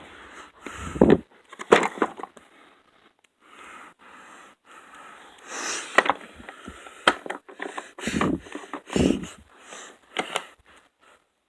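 Irregular knocks, thumps and rustles of things being handled and moved about, with no motor running.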